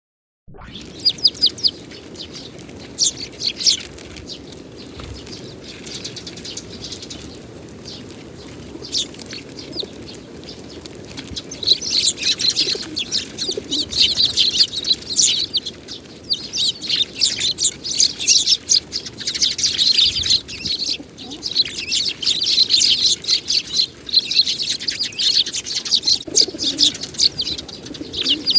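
Eurasian tree sparrows chirping, with many short, high chirps, few at first and much busier from about halfway in, over a steady hiss of heavy rain.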